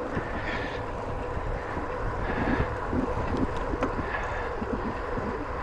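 Wind buffeting the microphone over steady rolling noise while riding a bicycle on a road.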